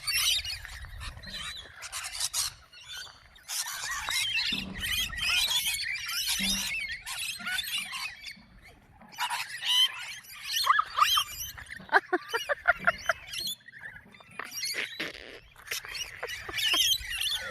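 Several birds calling, a busy run of short, shrill chirps and squeals that come in clusters with brief pauses.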